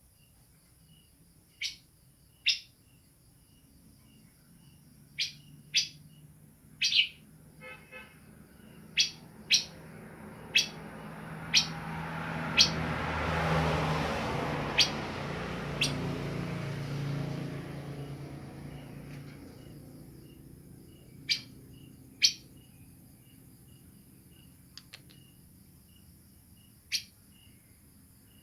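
Moustached babbler giving short, sharp, downward-slurred whistled notes, singly or in quick pairs, a second or more apart: a young bird practising its 'nembak' shot notes. A broad noise with a low hum swells and fades through the middle.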